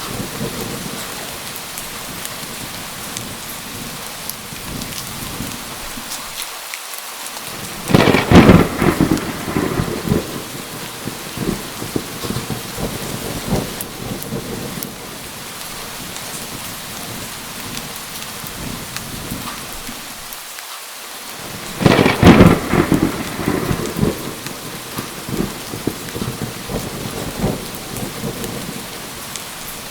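Steady rain with two loud thunderclaps, about eight seconds in and again about fourteen seconds later. Each starts suddenly, then crackles and rumbles away over a few seconds.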